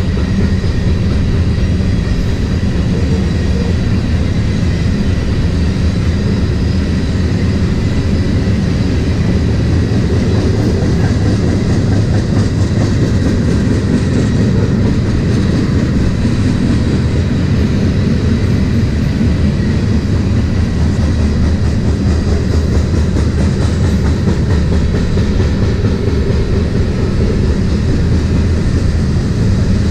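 BNSF grain train's freight cars rolling past: a steady, loud low rumble of steel wheels on the rails that doesn't change in level.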